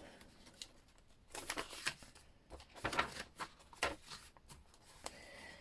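Paper rustling in several short bursts as the pages, tags and cards of a chunky handmade paper journal are handled and turned.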